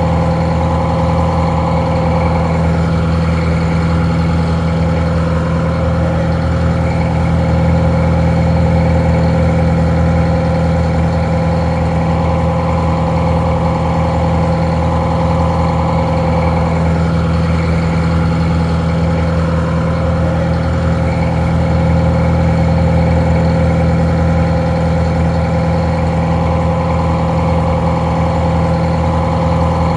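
Detroit Diesel 4-71 four-cylinder two-stroke diesel engine idling steadily, a little muffled.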